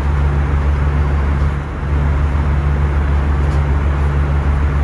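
Steady cabin noise of an Airbus A319 in cruise: a deep engine and airflow drone with a low hum, dipping briefly about a second and a half in.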